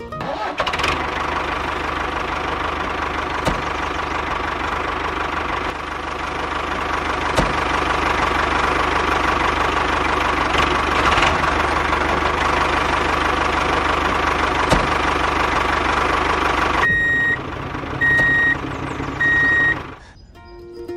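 An engine running steadily with a clattering knock, then three short, evenly spaced beeping tones of a vehicle reversing alarm near the end.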